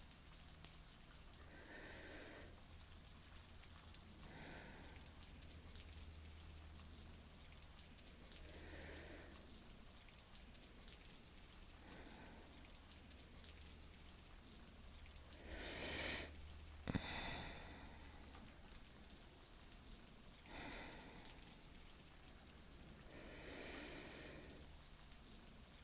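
Steady rain falling, with a person's slow, soft breathing every few seconds as she dozes; one breath just past the middle is louder, followed by a single sharp click.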